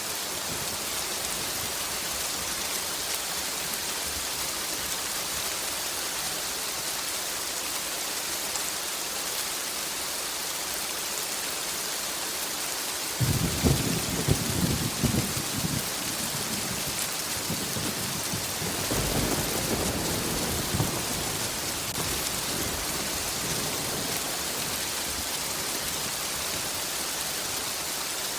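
Steady heavy rain hissing, with a sharp, crackling thunderclap about halfway through and a softer rolling rumble of thunder a few seconds later.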